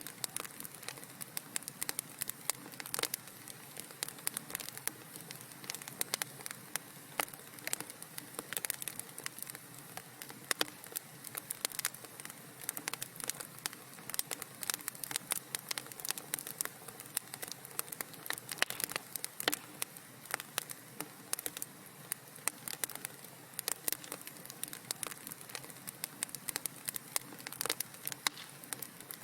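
Fire crackling in a fireplace: a continuous stream of irregular sharp pops and snaps over a soft hiss.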